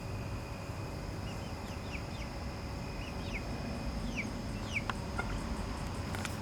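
Young backyard chickens calling while they forage: a string of short, falling peeps, about eight of them through the middle stretch.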